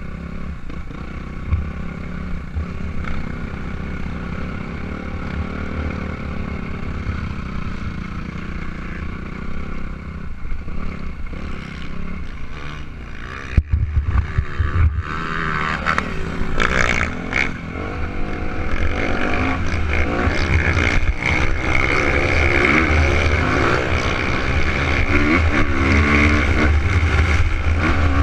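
Suzuki RM250 two-stroke motocross bike running and revving, growing louder from about halfway through. There is a sharp knock about 13 seconds in.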